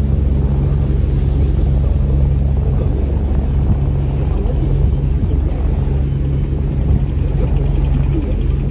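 Tourist river boat's engine running steadily underway: a loud, even low drone with a steady hum.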